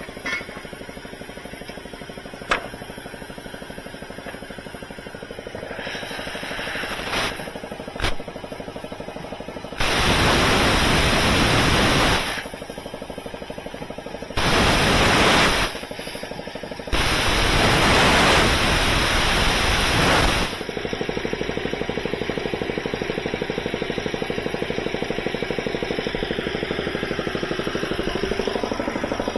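A machine runs steadily with a fast, even rattle. Three loud hissing blasts cut across it, the last and longest lasting a few seconds.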